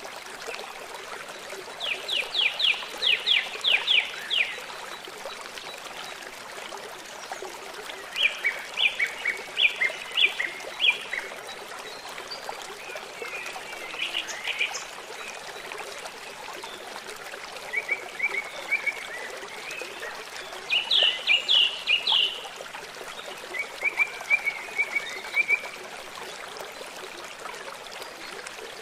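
A river flowing with a steady rush of water. A songbird sings over it in short bursts of quick repeated high notes every few seconds.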